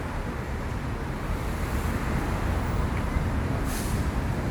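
Steady road traffic noise on a city street, with wind buffeting the microphone and a brief hiss about three and a half seconds in.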